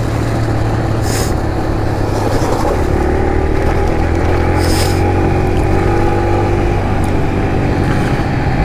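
Kawasaki KLX140 pit bike's small single-cylinder four-stroke engine running at a steady cruise, heard from on the bike.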